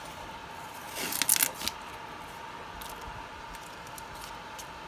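A 3D printer's bed being pushed aside by hand: a short rattle of clicks and scraping about a second in, over a steady high-pitched hum.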